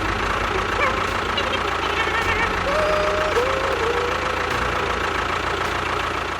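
An engine running steadily at idle, with a fast pulsing low rumble.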